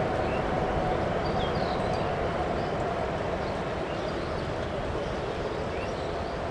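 Jet airliner engines running as a steady, even rumble that eases off slightly, with faint bird chirps above it.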